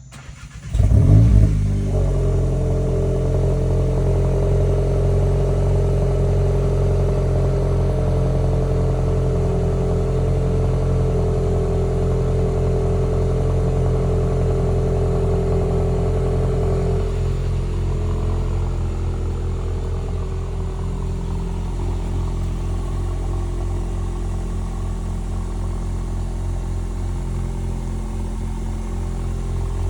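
Cold start of a Mk8 Volkswagen Golf GTI's 2.0-litre turbocharged four-cylinder (EA888) with its exhaust resonator deleted. The engine cranks briefly, catches with a short loud rev flare, and settles into a steady high cold idle. The idle eases down a little about seventeen seconds in.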